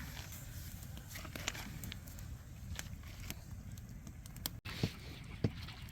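Small newly lit campfire crackling faintly, scattered soft clicks and pops with a few sharper ticks near the end.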